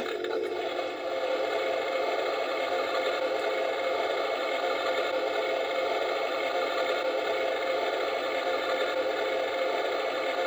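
Toy washing machine running, a steady whir from its small motor turning the drum.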